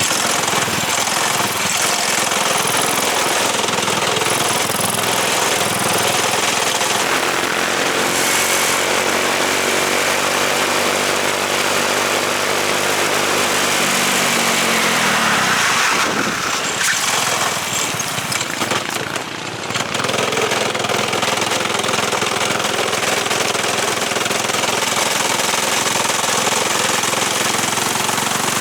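Subaru KX21 single-cylinder four-stroke racing-kart engine running hard on track, its revs rising and falling. The revs and level drop briefly about two-thirds through, then pull back up.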